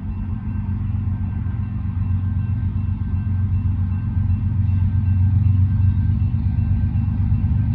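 Low, steady rumble of a stack train's diesel locomotives, growing louder as the train approaches.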